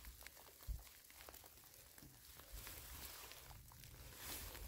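Faint wet-forest ambience: scattered light ticks of rain drops with soft rustling, and a single dull low thump just under a second in.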